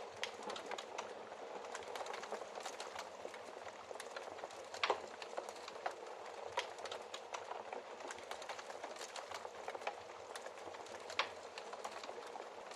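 Wood fire crackling, with a dense run of small snaps and a few louder pops, the biggest about five seconds in.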